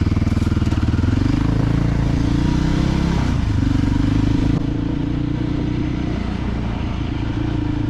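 Voge 300GY dirt bike's single-cylinder engine running. Its pitch rises over the first second and shifts again about three and a half seconds in, and it runs a little quieter after about four and a half seconds.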